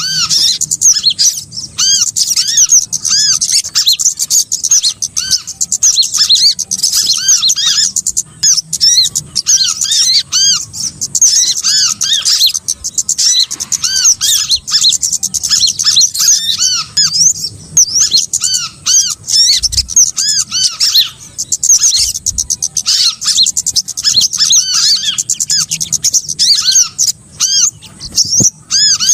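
Bird-lure recording of small songbirds calling: a dense, unbroken stream of rapid, high-pitched chirps and short arched call notes, several birds overlapping.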